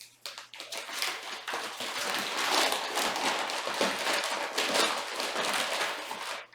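Gift paper rustling, crinkling and tearing as a present is unwrapped by hand. The crackle is dense and continuous and breaks off abruptly at the end.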